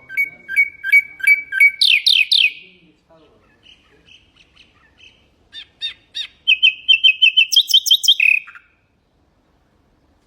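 A nightingale singing two phrases. The first is a run of paired repeated notes ending in a few louder, falling strokes. After a pause of a couple of seconds, the second is a fast series of repeated notes that ends on a lower note.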